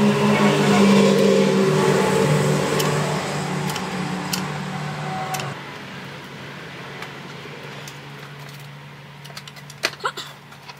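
A motor vehicle's engine running close by. It is loudest over the first couple of seconds, then fades away steadily over about five seconds, as if driving off. A few sharp clicks and knocks come near the end.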